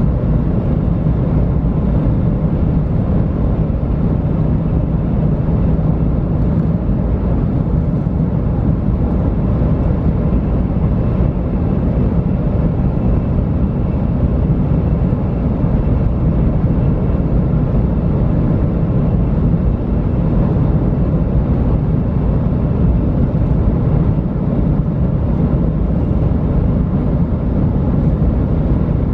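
JR West 500 series Shinkansen running, heard inside the passenger car as a steady low rumble of wheels and running noise with no change in pitch.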